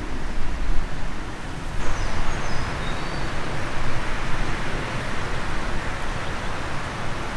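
Steady outdoor rushing noise with heavy low rumble. About two seconds in its tone brightens, and a few faint, high bird chirps follow.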